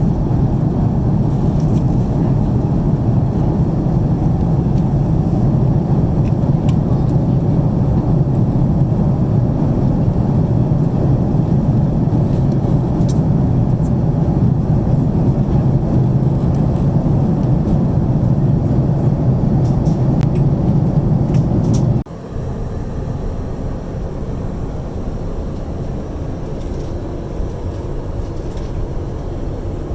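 Steady cabin roar of an Airbus A330-300 from an economy seat: engine and airflow noise, strongest low down. About 22 seconds in it drops suddenly to a quieter steady cabin noise.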